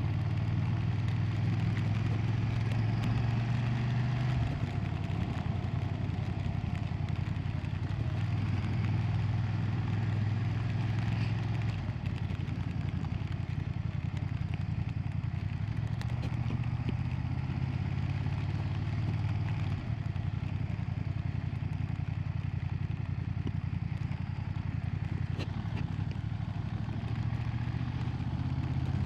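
A 2025 BMW F900R's 895 cc parallel-twin engine running while the bike is ridden. Its low note swells and eases several times.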